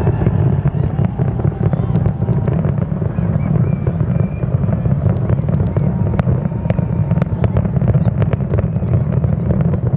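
Fireworks display heard from a distance: a continuous low rumble of bursts with many sharp crackles, thickest in the second half.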